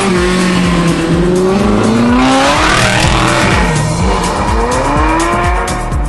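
A sports car engine revving, its pitch climbing, dropping about four seconds in, then climbing again, over background music with a steady beat.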